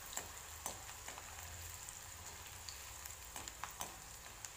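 Crushed garlic cloves and green chillies frying in oil in a kadhai: a faint, steady sizzle with scattered small crackles, the garlic being browned until golden.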